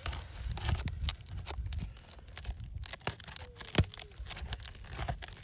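Asphalt shingles being pried up with a roof snake: irregular crackling and tearing as the sealant strip breaks and the brittle shingle tears instead of releasing.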